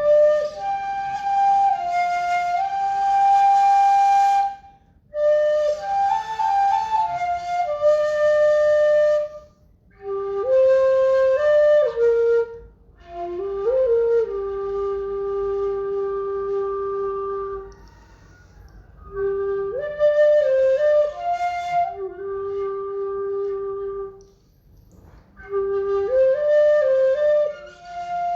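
Solo Vietnamese bamboo flute (sáo trúc) playing a slow, calm melody in phrases of a few seconds, with long held notes and small slides between pitches, each phrase followed by a brief pause for breath.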